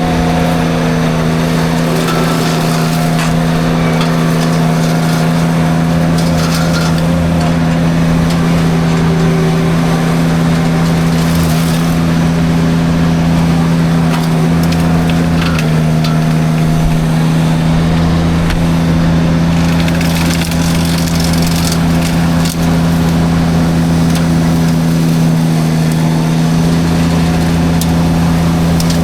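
Mini skid steer's engine and hydraulic forestry mulcher drum running steadily at full speed with a constant low hum, while brush and wood crackle and splinter as the drum shreds them, most sharply around twelve seconds in and again about twenty seconds in.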